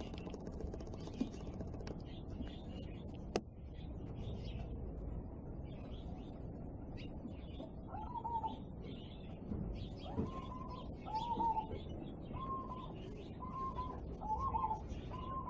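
Aviary birds calling: from about halfway in, a series of short, clear notes repeats roughly once a second, over faint high twittering from small birds. A single sharp click sounds a few seconds in.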